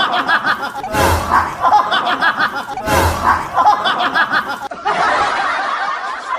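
Laughter sound effect: the same short chuckling laugh repeats about every two seconds. From about five seconds in it gives way to a different, hazier laugh.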